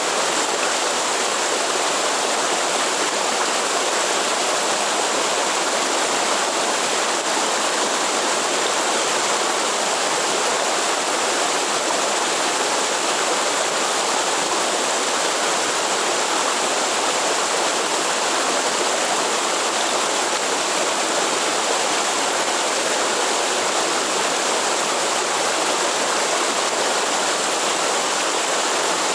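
Waterfall in Atlantic Forest, water rushing and splashing in a steady, unbroken hiss.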